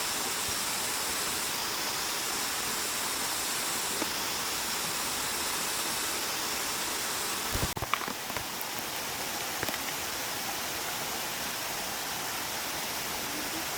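Steady rushing of a flowing mountain stream, with a brief thump about eight seconds in.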